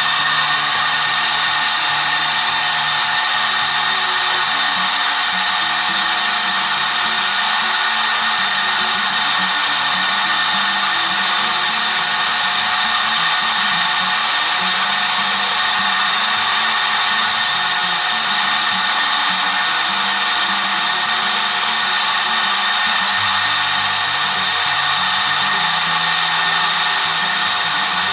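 Power tool running continuously at a steady pitch with a high, hissing whine. It starts abruptly and does not change.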